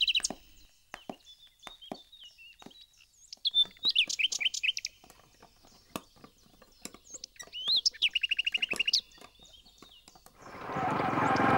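Birds singing: short high chirping phrases, with a fast even trill about three-quarters of the way through. A louder steady rushing sound swells up near the end.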